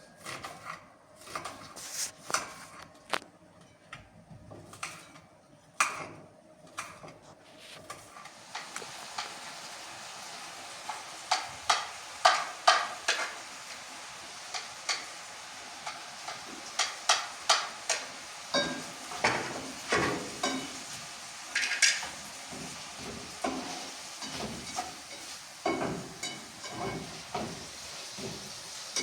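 Knocks and clinks of a utensil against a pot. About eight seconds in, a steady sizzle of food frying in a pan begins, with the spoon scraping and tapping as it is stirred.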